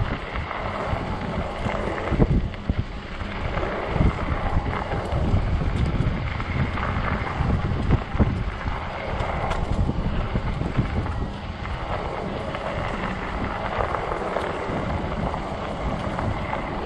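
Wind buffeting the microphone during a fat-tire e-bike ride in strong gusts: a continuous low rumble that swells and dips.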